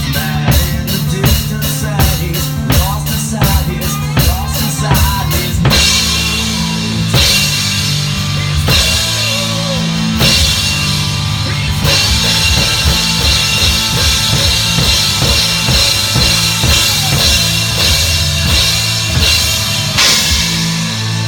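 Heavy metal band playing: rapid, even drum-kit strikes under bending lead-guitar notes for the first six seconds or so, then held chords with washing cymbals and a few accented crashes over a steady bass line.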